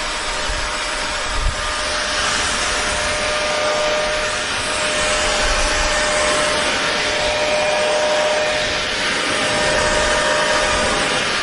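Electric hair dryer running continuously: a steady rush of blown air with an even motor whine. There is a brief low bump about a second and a half in.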